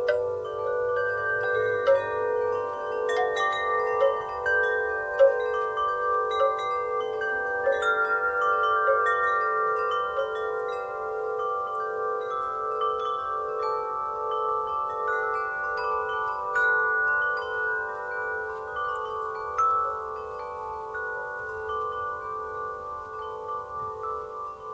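Wind chimes ringing in the breeze, many overlapping tones struck irregularly and left to ring on; the strikes are busiest in the first half and thin out towards the end.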